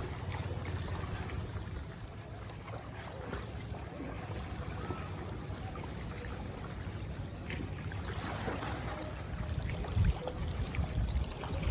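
Shallow sea water lapping and trickling at the shore, under a steady low wind rumble on the microphone that gusts about ten seconds in.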